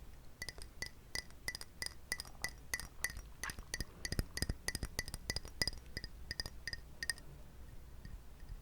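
Quick, irregular taps on a glass container, about four a second, each giving a short clear ring at the same pitch; the tapping stops about a second before the end.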